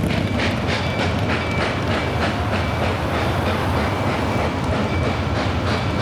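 A train running by with a steady rhythm of about three beats a second over a continuous rumble.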